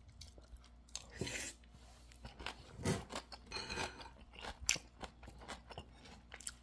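A person chewing a mouthful of a vegetable dish topped with kimchi, with irregular short crunches and mouth clicks.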